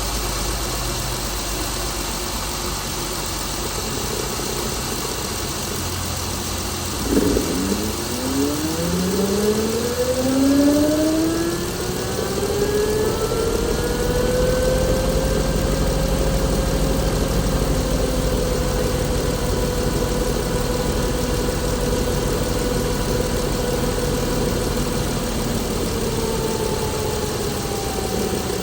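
Chrysler Pentastar 3.6-litre V6 engine running at idle. About seven seconds in, a whine rises in pitch over several seconds, then holds steady.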